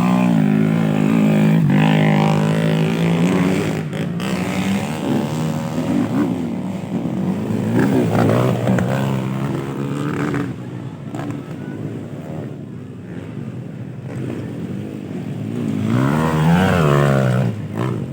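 Motocross bikes racing past on a dirt track, engines revving up and down. Several engine notes overlap, and one bike swells loudly near the end as it passes close.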